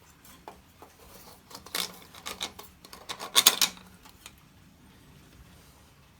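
Handling noises on the generator: a run of knocks, clicks and rubs from parts and tools being moved, loudest about three and a half seconds in.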